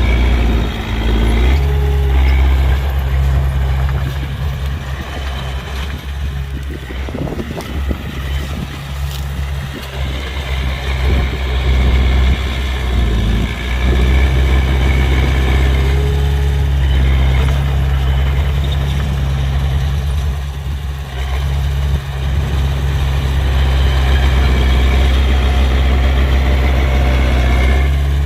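An engine running steadily with a loud, low hum. The hum eases off for several seconds early on and again briefly later, then returns to full strength.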